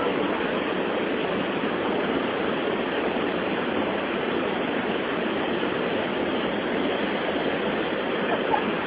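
Steady, unbroken rush of water pouring over the Santo Antônio falls.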